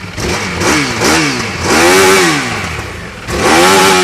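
EBR 1190 RX sportbike's V-twin engine revved in throttle blips: three quick short ones, then two longer, higher revs that rise and fall back. The exhaust note is loud and deep.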